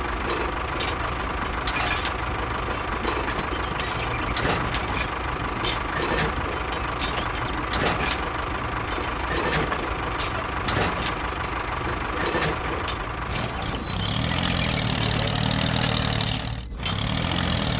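Small motors of a miniature model construction vehicle running steadily with a thin whine and frequent clicks and knocks. About fourteen seconds in, a lower, louder motor sound takes over.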